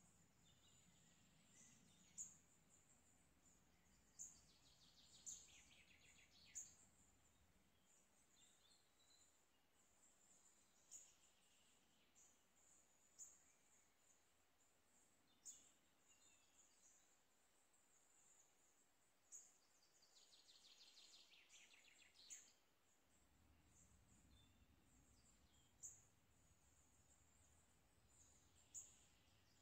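Faint outdoor ambience with distant birdsong: short high chirps every second or two, and twice a longer trill that falls in pitch.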